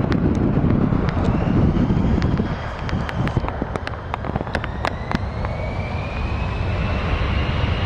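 Jet airliner's engines running at takeoff thrust during the takeoff roll: a broad roar with a thin whine slowly rising in pitch. Scattered sharp clicks are heard over it.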